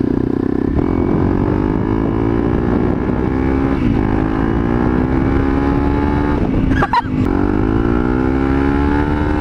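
Motorcycle with an FMF Powercore 4 four-stroke exhaust accelerating hard up through the gears. The engine note rises steadily in each gear and drops at the upshifts about a second in, about four seconds in and about seven seconds in.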